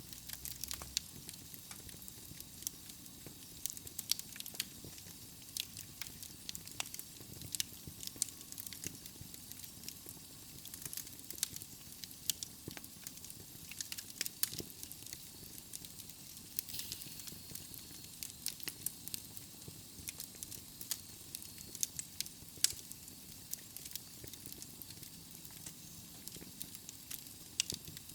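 Wood fire of burning logs in a fireplace crackling, with irregular sharp pops over a steady soft hiss.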